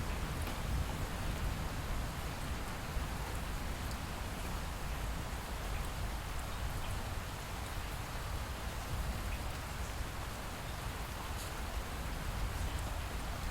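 Steady light rain falling, an even hiss with scattered faint drop ticks over a constant low rumble.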